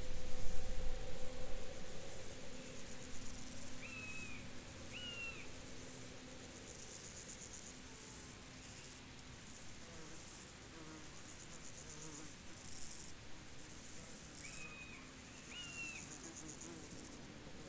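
Field insects chirping in repeated pulsed trills. Two short whistled notes sound twice, a few seconds in and again near the end, and a low rumble at the very start is the loudest part.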